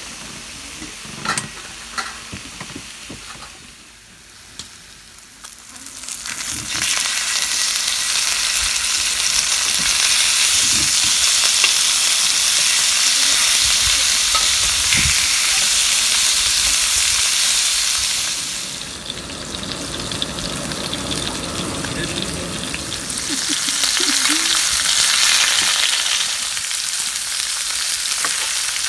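Pork neck sizzling as it cooks over a wood fire, with a few light clicks at first; the sizzle swells about six seconds in, eases off around twenty seconds in, then builds again.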